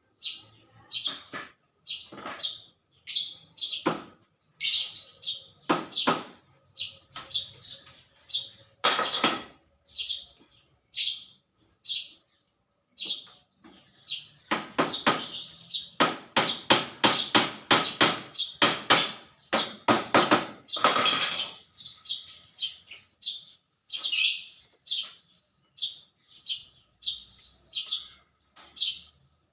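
Small birds chirping, short high calls repeating in quick succession, with a fast unbroken run of calls about halfway through.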